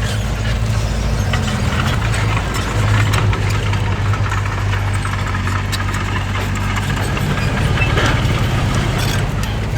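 Heavy construction machine's diesel engine running steadily, with scattered clanks and rattles over it.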